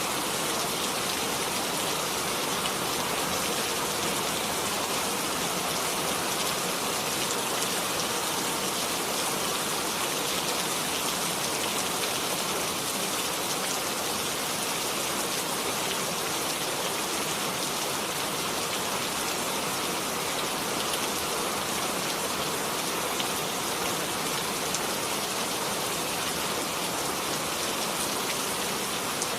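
Steady, even rain falling on a surface, with faint individual drops pattering through it.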